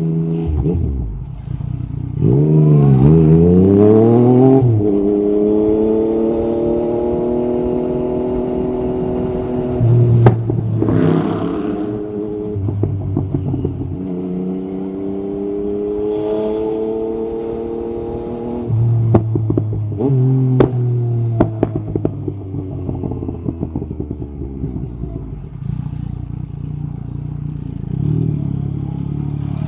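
Yamaha MT-09 SP's inline three-cylinder engine through an Akrapovic carbon exhaust. It revs quickly up and down a couple of seconds in, then runs through long stretches where the pitch slowly falls as the bike slows on the throttle. Sharp cracks come from the exhaust about ten seconds in and again around twenty seconds, and the engine settles to a low steady note near the end.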